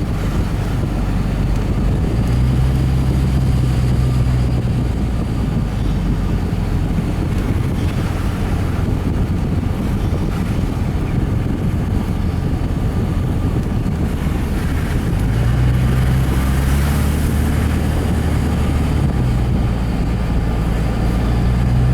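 A truck's engine and road noise heard from inside the cab while driving: a steady low drone that swells about two seconds in and again from about fifteen seconds in.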